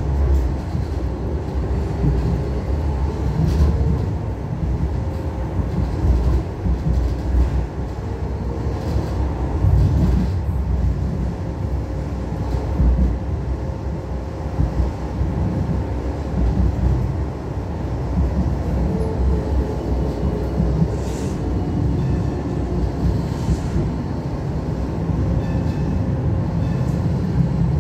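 Hong Kong Light Rail two-car train running along the track: a steady low rumble with a few scattered clicks and a faint motor whine that rises and falls.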